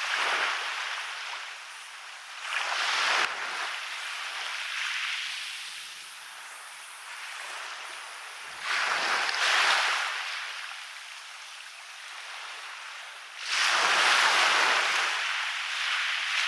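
Waves breaking on a beach: four surges of surf hiss a few seconds apart, each swelling quickly and then fading as the water washes up the shore.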